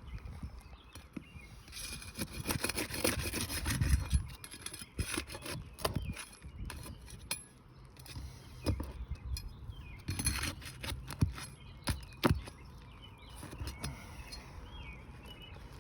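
Scraping and knocking of a roofer's tools on asphalt shingles as the shingles are pried loose and their nails pulled, with a run of sharp clicks and two longer spells of scraping.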